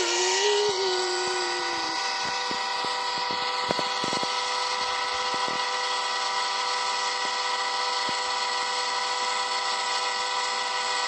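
A huge comic sneeze rendered as a long, steady blast: a loud hiss with many held tones like a horn or whistle, and a lower tone sliding down over the first two seconds.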